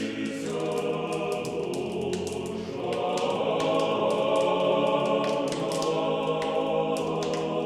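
A choir sings slow, sustained chords as closing music and swells about three seconds in, with a scatter of short clicks above it.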